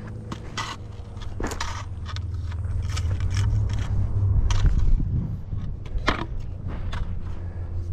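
Boots crunching and scraping on loose dirt and rock in irregular steps while climbing down a steep slope, over a steady low rumble. It gets louder for a moment about halfway through.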